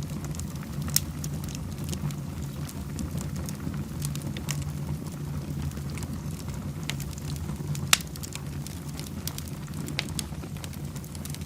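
Wood fire in a fireplace crackling, with scattered sharp pops over a steady low rumble. The loudest pops come about a second in and near eight seconds.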